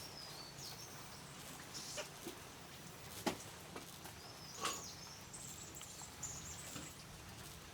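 Faint high bird chirps, with a few sharp clicks or taps in between.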